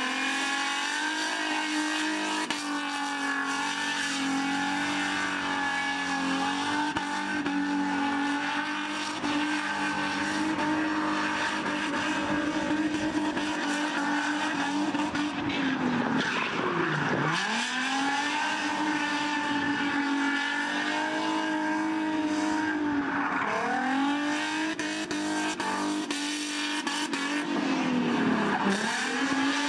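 Drift car's engine held at high revs through a long slide. The revs drop sharply and climb straight back three times, about halfway through and twice near the end.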